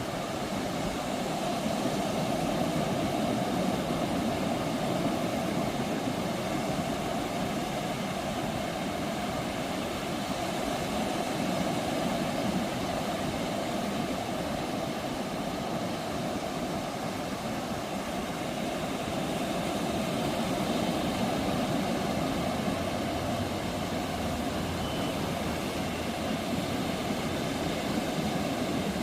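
Ocean surf breaking and washing on the shore: a continuous rushing wash that swells gently and eases again a couple of times.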